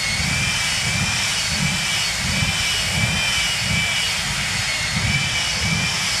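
Jet truck's jet engine running steadily at a low setting, a high whine that wavers slightly in pitch over a low rumble.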